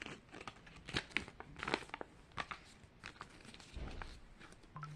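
Crinkling and crackling of folded paper being handled and unfolded, a Mini Brands collector's checklist, in many short irregular crackles.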